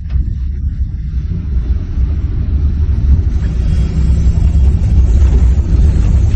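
Scania bus on the move: a loud, steady low rumble of engine and road noise.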